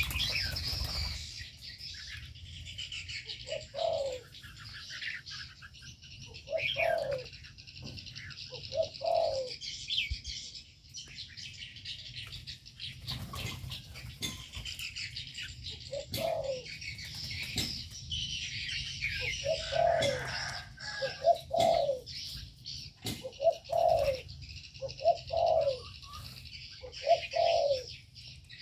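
Mixed aviary birds calling: a steady chorus of high chirping from many small birds, with short low cooing notes repeated at irregular intervals, more often in the second half.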